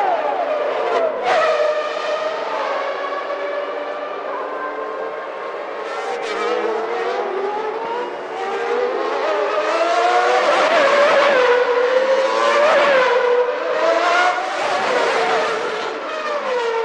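Several 1991 Formula One cars with 3.5-litre naturally aspirated engines running at high revs. Overlapping engine notes climb and drop with each gearchange, and the sound grows louder about two-thirds of the way in.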